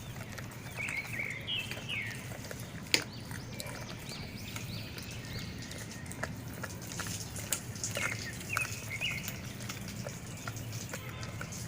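Dogs chewing and crunching raw pork feet, with scattered sharp cracks of bone, the loudest about 3 seconds in. Birds chirp briefly in the background.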